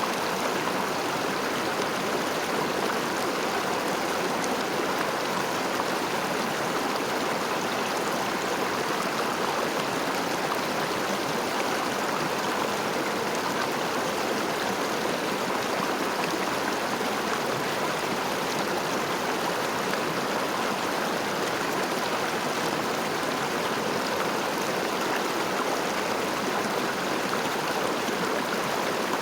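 River water flowing over stones, a steady, even rushing and babbling that does not change.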